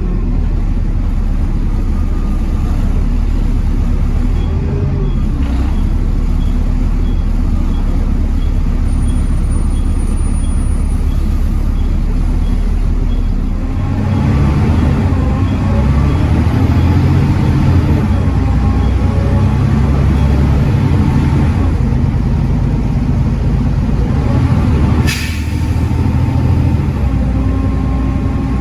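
Volvo D7C 7.3-litre diesel of a Volvo B7TL double-decker bus idling, then pulling away about 14 seconds in, the revs rising and stepping as the ZF Ecomat automatic gearbox changes gear. A brief sharp hiss comes about 25 seconds in.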